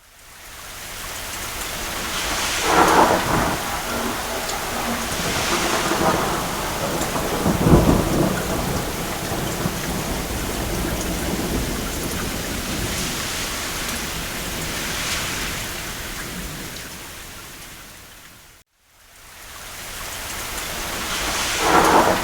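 Steady rain falling, with distant thunder rumbling several times; the strongest, deepest roll comes about eight seconds in. About nineteen seconds in, the sound drops out briefly to silence and then swells back up.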